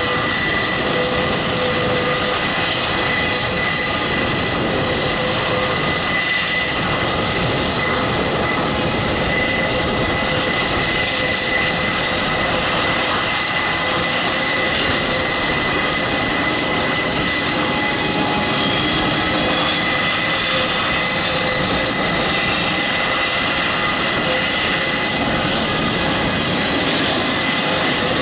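Airbus A400M's Europrop TP400 turboprop engines running steadily during engine start, a constant high turbine whine of several steady tones over dense engine noise.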